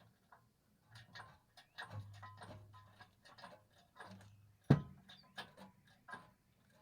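Irregular metallic clicks and clinks of tools and parts during work on the engine, with one sharp knock about halfway through and a low hum coming and going.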